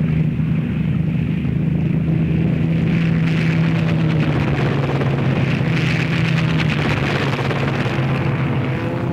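Piston-engined fighter aircraft droning in flight, a steady loud engine drone over a rushing hiss, its pitch dropping a little a couple of times.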